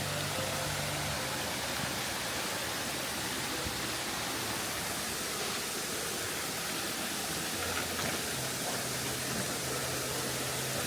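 Steady rushing of a waterfall's falling water, heard from the top of the falls.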